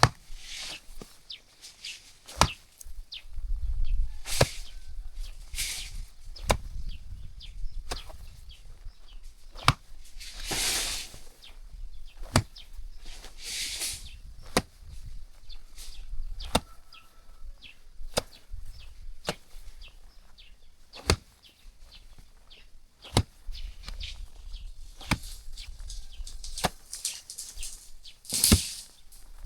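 Hand-tool work: irregular sharp knocks and taps, roughly one every second or two, with short scraping hisses between them and a low rumble at times.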